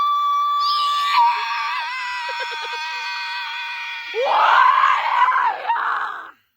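A person screams one long, high, held note. It dips slightly in pitch about a second in, then turns louder and rougher about four seconds in as the voice cracks, and breaks off just after six seconds.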